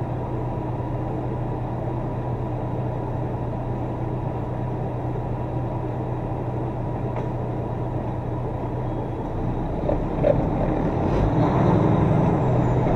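Semi truck's diesel engine running steadily as the truck rolls slowly; about ten seconds in there is a brief sharp sound and the engine gets louder with a lower note.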